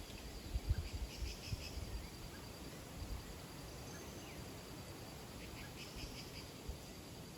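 Small birds chirping in two quick clusters of high notes, about a second in and again near six seconds, over a steady thin high-pitched tone, with a few low thumps near the start.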